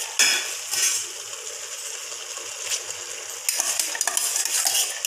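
Chopped ridge gourd, onion and tomato sizzling in a pressure cooker. A spoon scrapes and clinks against the pot several times.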